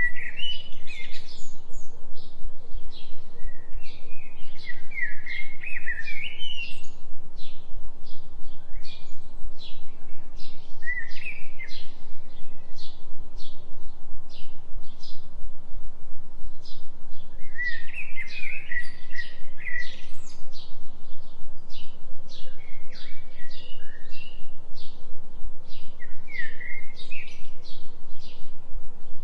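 Forest birds singing in repeated short warbled phrases among many quick high chirps, over a steady low tone that pulses about three times a second: a delta 3 Hz binaural beat.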